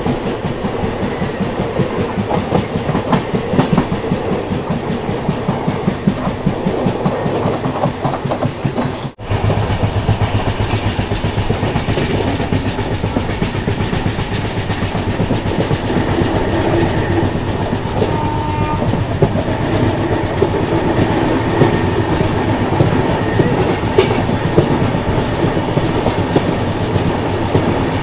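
Indian express train running at speed, its wheels clattering over the rail joints, heard from the side of the moving coach. For about the first nine seconds another passenger train passes close alongside on the next track, with a dense, fast clatter. A sudden short break then leaves the steadier running noise of the train alone.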